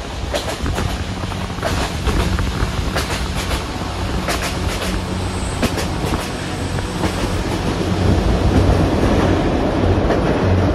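Passenger train running on the rails: a steady low drone with the wheels clicking irregularly over rail joints.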